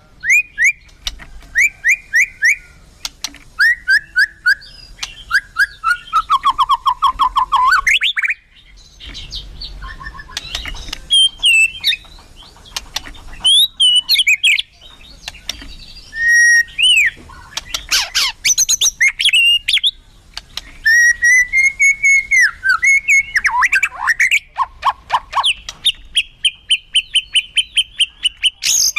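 White-rumped shama (murai batu) singing non-stop, a varied song full of fill-in calls. It mixes rich whistled phrases that slide up and down with fast rattling runs of sharp clicks and short trills, and holds one long steady whistle near the end.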